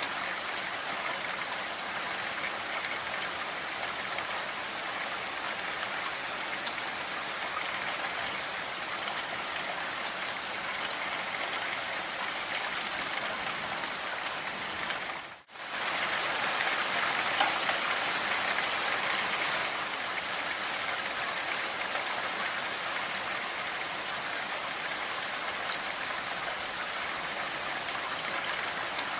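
Steady, even rain. It cuts out for a split second about halfway through, then comes back a little louder for a few seconds.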